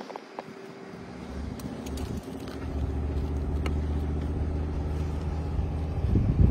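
A motor vehicle's engine running steadily with a low hum, growing louder over the first couple of seconds, then holding level until it cuts off suddenly at the end.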